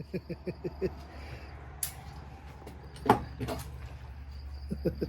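Pistol being handled at a shooting bench after a magazine has been emptied: a few sharp clacks, the loudest about three seconds in. Quick runs of faint popping come at the start and again near the end.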